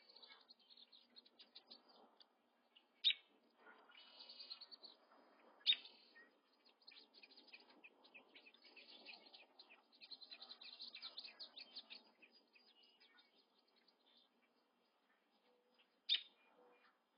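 Birds chirping: runs of quick, high chirps, with a few louder, sharper calls about three, six and sixteen seconds in.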